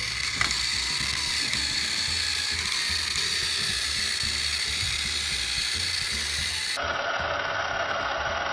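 Battery-powered Thomas & Friends TrackMaster toy trains running, a steady whirring and rattling of small electric motors and plastic gears. About seven seconds in the sound abruptly turns duller.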